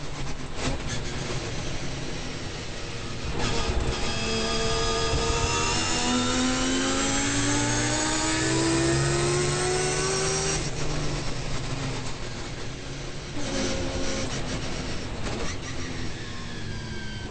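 Turbocharged three-rotor 20B rotary engine of a Mazda RX-7 race car, heard from inside the car: a long full-throttle pull, the pitch rising steadily for about six seconds, then cutting off abruptly as the driver lifts, with sharp pops while off the throttle.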